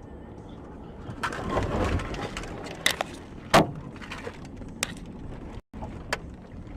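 Car collision heard on a dashcam: driving noise swells into a crunching impact, followed by several sharp cracks and knocks, the loudest about halfway through.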